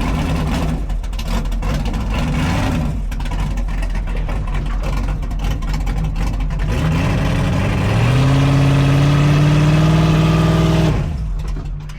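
Class 1 off-road race car engine running: uneven at first, then about seven seconds in the revs climb and are held high for about three seconds before dropping off near the end.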